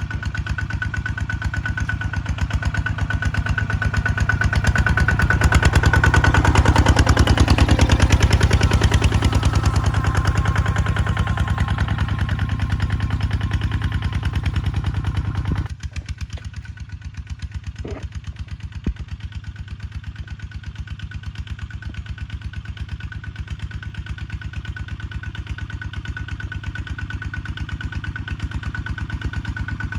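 Kubota tractor's diesel engine running with an even firing beat, louder and swelling through the first half, then dropping suddenly to a quieter idle about halfway through. A couple of short clicks follow soon after the drop.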